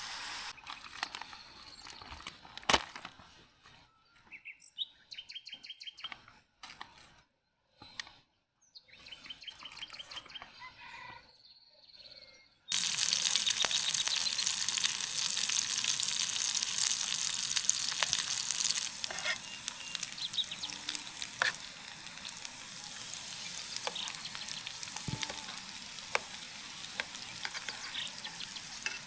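Birds chirping on and off for about the first twelve seconds, then an abrupt switch to food frying in a pan: a steady loud sizzle with scattered pops, loudest for its first several seconds.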